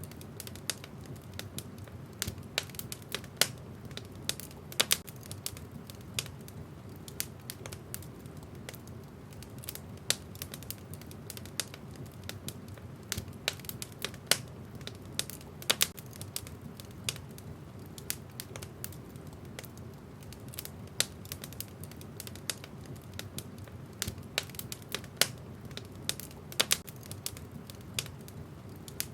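Wood fire burning in a fireplace, with irregular crackles and sharp pops from the burning logs over a steady low rumble of the flames.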